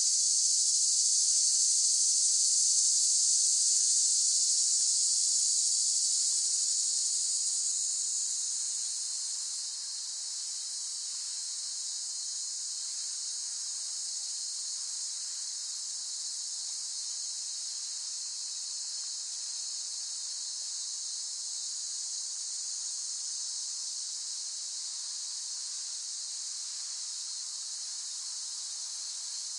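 Cicadas droning in a steady, dense high-pitched buzz. The loudest part of the chorus eases off about eight to ten seconds in, leaving a quieter, even drone.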